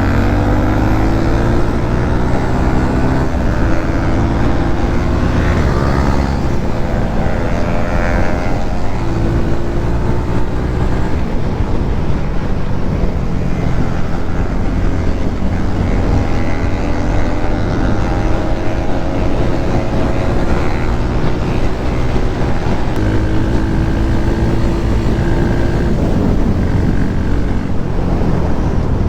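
Motorcycle engine running while riding. Its pitch climbs over a few seconds and then drops back, again and again, as it is worked through the gears, over a steady low rush of wind and road noise.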